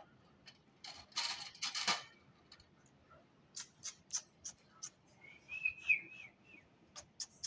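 Small sounds from playing with a pet lovebird. A harsh noisy burst comes about a second in, then scattered sharp clicks and taps, and a short wavering whistle around six seconds in.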